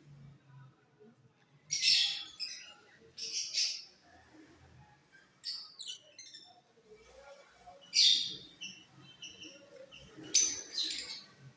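Lovebirds calling in short, harsh, high chirps: about five separate bursts a second or two apart, one of them a run of quick falling notes.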